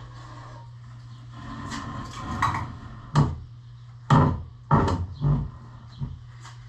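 Wooden boards and dollies creaking and scraping under a heavy milling machine as it is shifted, then about five sharp knocks in quick succession, over a steady low hum.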